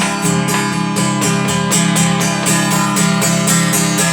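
Acoustic guitar strummed in a steady rhythm, about four strokes a second, in an instrumental passage between sung lines of a song.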